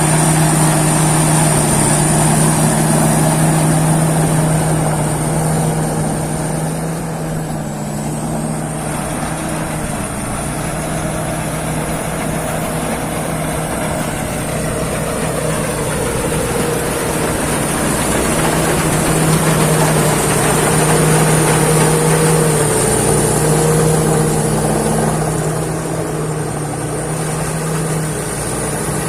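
Peng Charoen Kan Chang rice combine harvester running steadily, a constant engine drone under a high, slightly wavering whine, easing a little in level about eight seconds in and again near the end.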